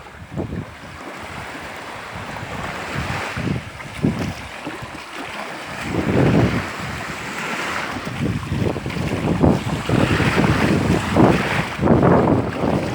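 Wind buffeting the microphone over waves washing on a shore; the gusts grow stronger about six seconds in.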